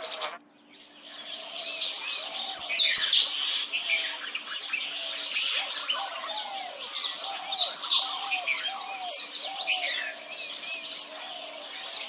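Indian robin song: many quick, high chirps and trills, with lower repeated whistled notes beneath and a faint steady hum. The sound breaks off and starts again about half a second in.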